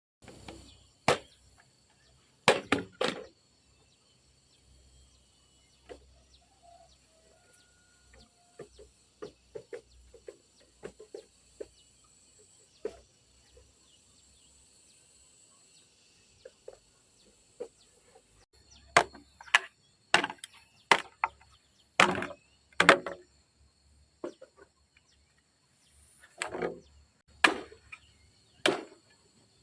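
A tool striking wood in irregular runs of sharp blows, with lighter taps between the louder runs, as timber is worked to build a trellis.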